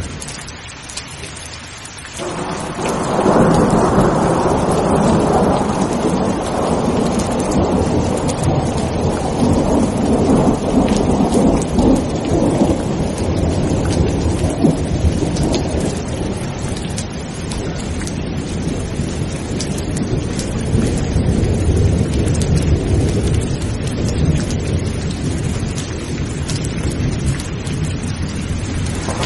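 Steady heavy rain with a long roll of thunder that breaks in about two seconds in, rumbles loudest for several seconds and then slowly fades, still grumbling low to the end.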